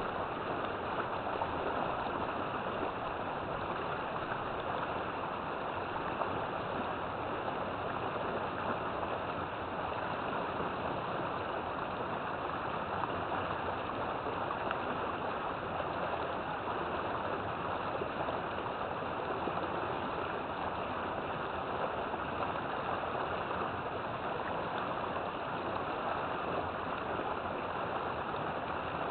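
River water flowing steadily, an even rush with no changes or separate events.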